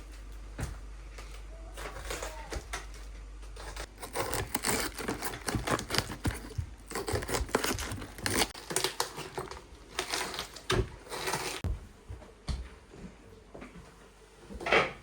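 Irregular rustling and crinkling with tearing sounds, something being handled, busiest from about four to twelve seconds in.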